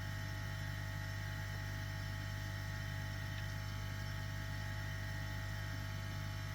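Steady low electrical hum with a faint, thin high-pitched whine above it, unchanging throughout.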